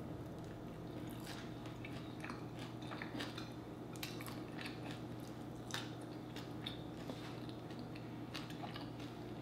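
Chewing and wet mouth clicks and smacks from eating sauced chicken wings: a scatter of short, sharp clicks over a steady low hum.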